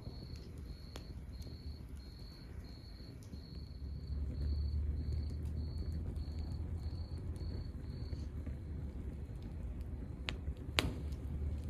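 Wood fire burning, with a low rumble and scattered crackles, and two sharp pops near the end. A high, even chirp about twice a second, in the manner of a cricket, runs alongside and stops about eight seconds in.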